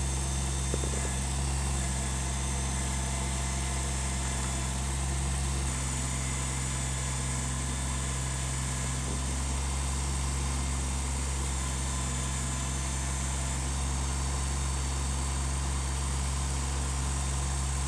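Kubota compact tractor's diesel engine idling at a steady, even speed.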